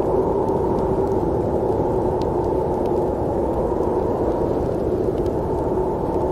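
Steady running noise of a train: a low rumble with a faint steady hum and a few faint ticks.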